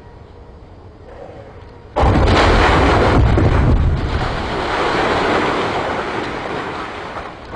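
Special-effects house explosion: an organic-dust fireball fired from dust mortars goes off suddenly and loudly about two seconds in, then dies away over several seconds as a deep rumble.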